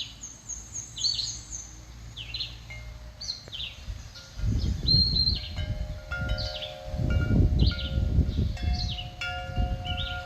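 Wind chimes ringing with several long overlapping tones from about five seconds in, over small birds repeating short, sharp chirps. Low gusts of wind rumble on the microphone through the second half.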